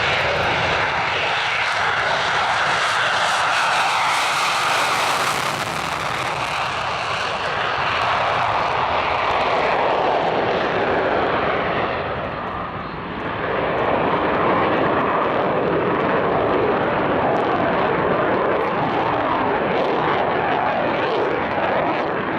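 F-16 fighter jet's single jet engine running loud and steady as the jet flies low. The roar is brightest in the first few seconds, dips briefly about halfway through, then builds again.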